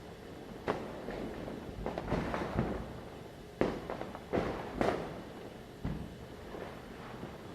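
Diwali firecrackers going off: sharp bangs at irregular intervals, the loudest a little after halfway, over a steady crackle of bursts.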